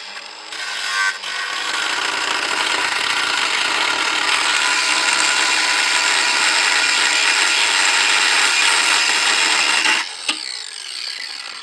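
Angle grinder cutting through a screw on a cast iron Jøtul 606 wood stove, a loud steady grinding hiss that starts about half a second in and stops abruptly about ten seconds in.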